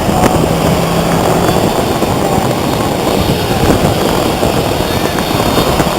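Boeing 737-700 airliner's CFM56-7B jet engines, a steady rushing noise as the jet comes in on its landing approach.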